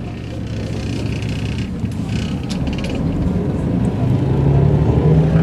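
Mercedes-Benz O405 N² city bus driving, heard from inside: its diesel engine pulls steadily and grows louder toward the end, with a short bout of interior rattling about two seconds in.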